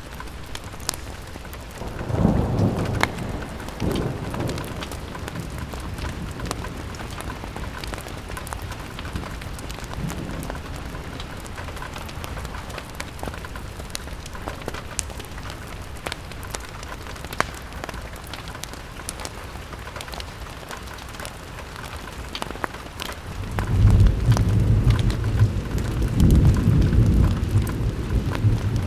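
Steady rain on a window, dotted with sharp ticks and crackles. Low rumbling rolls of thunder come about two seconds in and again through the last five seconds, louder than the rain.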